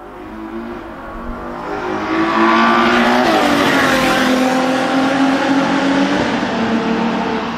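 A high-performance sports car's engine at high revs on a racetrack. Its note climbs and grows louder, falls sharply about three seconds in, holds steady, then drops again near the end.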